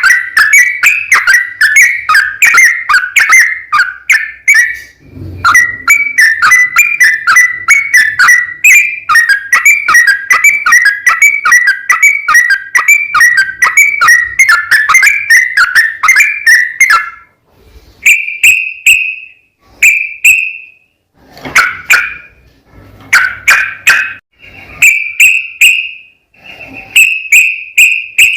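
Yellow-vented bulbul (trucukan) singing a long, fast run of chattering whistled notes, broken briefly about five seconds in. After about seventeen seconds it gives way to separate whistled calls and short notes.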